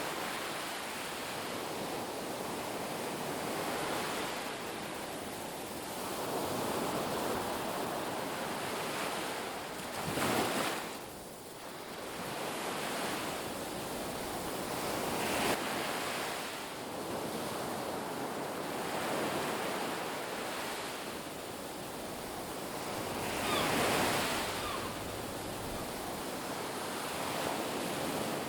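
Ocean surf washing onto a beach: a continuous hiss of breaking waves that swells and ebbs, with the loudest waves breaking about ten seconds in and again about two-thirds of the way through.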